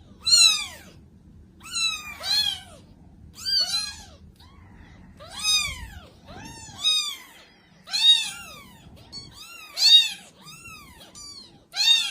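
A kitten meowing repeatedly: about a dozen short, high-pitched meows, each rising then falling in pitch, roughly one a second.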